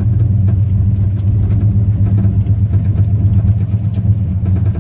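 1968 Cadillac hearse's V8 engine running with a steady low hum, with faint clicks tapping through it. The owner cannot place the clicking/tapping and suspects the steering or an engine mount.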